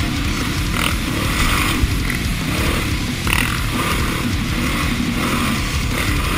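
Honda XR650R's single-cylinder four-stroke engine running under way on a dirt trail, its pitch rising and falling as the throttle opens and closes.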